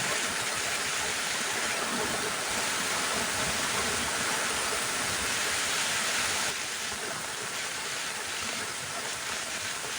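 Heavy rain falling steadily, a little quieter from about six and a half seconds in.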